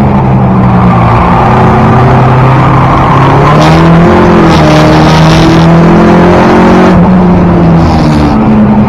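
1992 Toyota Celica GT race car's engine under hard throttle, heard loud from inside the cabin. The pitch rises as it accelerates out of a turn about four seconds in, holds high down the straight, and eases a little near the end.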